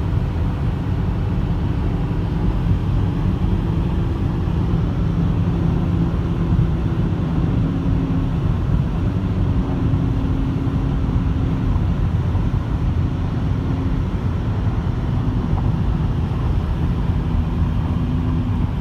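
Steady engine and road noise heard inside a moving Infiniti's cabin. A low hum in the engine sound shifts in pitch every few seconds as the speed changes.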